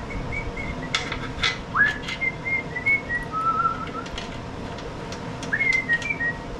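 A man whistling a slow tune, a few held notes that each slide up into pitch, with several light clicks and taps about one to two seconds in and again about four seconds in.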